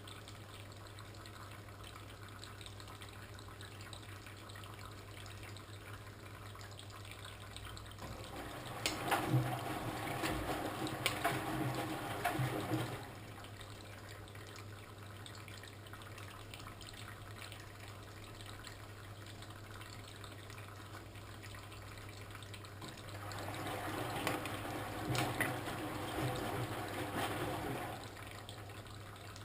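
Old washing machine in its wash phase: a steady low hum throughout, and twice the drum turns for about four seconds with water sloshing and splashing, then stops.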